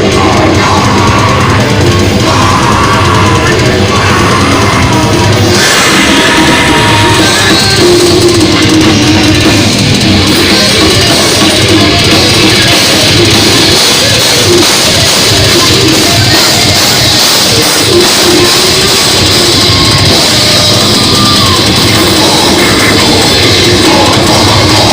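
Heavy metal music played loud and without a break, with a drum kit.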